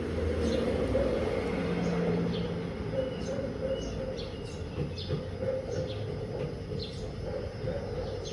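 A 16 kg DELTA washing machine running with a steady low rumble and hum that swells slightly in the first few seconds. Birds chirp repeatedly over it in short, high, falling notes.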